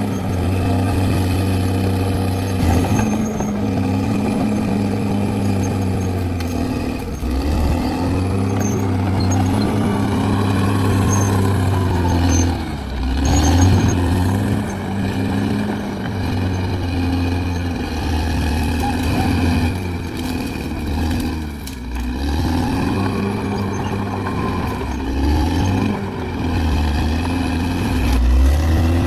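Bulldozer diesel engine running continuously. Its pitch sags and climbs again several times as the engine speed changes.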